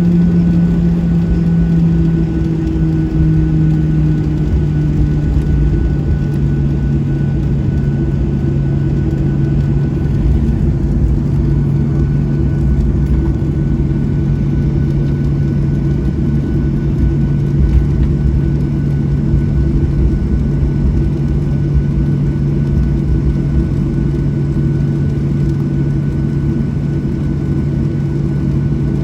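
Cabin noise of a Boeing 737-700 on the ground after landing, its CFM56 engines running at idle: a steady low hum over a rumble, the hum dropping slightly in pitch a few seconds in.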